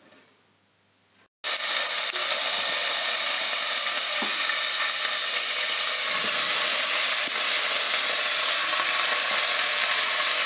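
Chopped vegetables (cabbage, string beans) sizzling loudly as they fry in hot oil in a pan. The sizzling starts abruptly about a second and a half in, after near silence, then holds steady.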